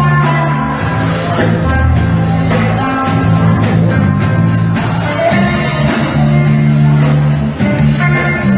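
A live band playing an improvised jam, loud and steady, with sustained low bass notes that change every second or so under a regular beat.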